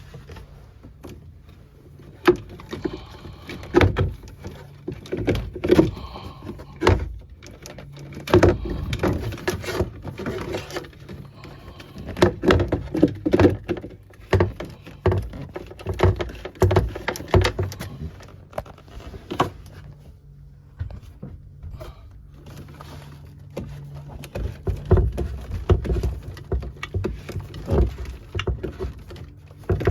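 Irregular clicks, knocks and scrapes of hands working on a plastic water filter housing while a new cartridge is fitted, over a faint steady low hum.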